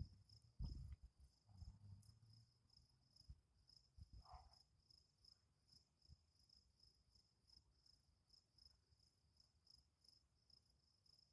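Faint crickets chirping: a steady high-pitched pulsing, repeating evenly several times a second.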